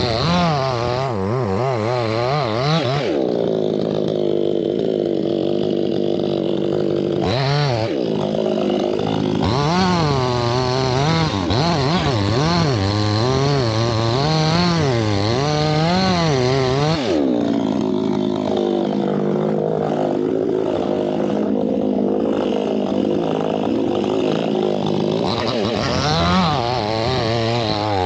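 Two-stroke chainsaw cutting teak wood. The engine pitch wavers up and down as the chain bites and eases, with two long stretches of steady high revving.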